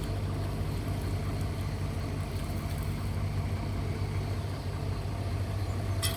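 Kobelco SK135SR excavator's diesel engine running steadily at idle, a low, even hum, with a single sharp click near the end.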